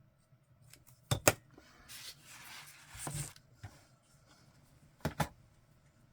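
Craft materials handled on a table: two quick double clicks about four seconds apart, with a rustle of paper or fabric between them.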